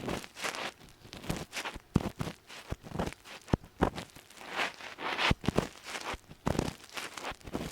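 Ear pick scraping and scratching deep inside an ear, close to the microphone: a run of irregular crackly clicks and rubbing strokes, with one longer scrape about halfway through. It is the gritty 'gorigori' scratching meant to mimic crackly earwax being worked loose.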